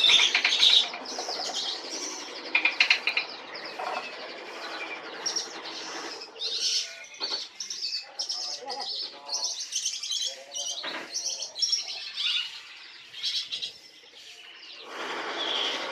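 Songbirds chirping and singing in quick, overlapping bursts of high notes, with a few lower repeated calls in the middle.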